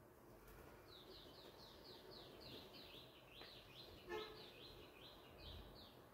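Faint bird calls: a rapid run of short, falling high chirps, about four a second, from about a second in until near the end. A short sharp sound about four seconds in.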